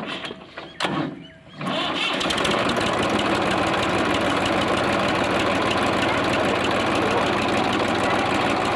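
Massey Ferguson tractor engine running steadily at a loud, even pitch. It cuts in about two seconds in, after a few short knocks.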